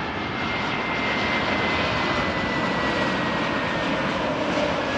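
Jet airliner on its landing approach, its engines giving a steady rush with a thin whine that slowly falls in pitch.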